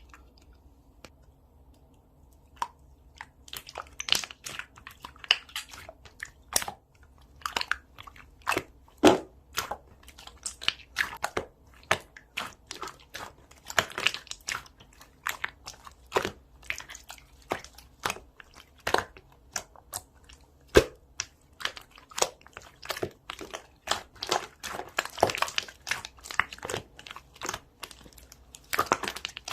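Close-up crunching and crackling: sharp, irregular crackles several times a second, beginning about three seconds in.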